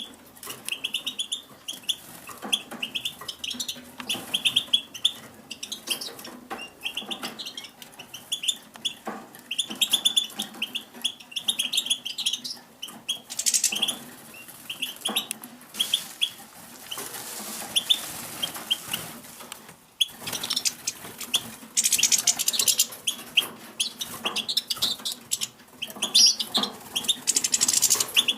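Captive finches chirping in quick series of short, high calls, with several stretches of wing fluttering.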